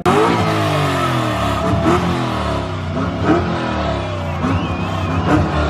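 A car engine revved hard several times, its pitch jumping up and sliding back down with each blip, over a steady hiss.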